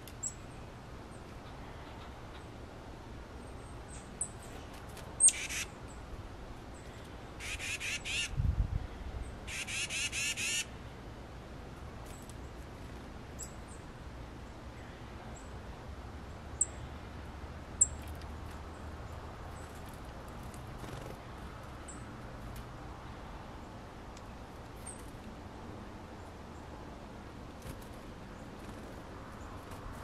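Wild birds calling around a backyard seed feeder: a few short, sharp high chirps and three harsh, rapidly rattling calls, the longest a little over a second, about 5, 8 and 10 seconds in. A low thump comes during the second rattling call.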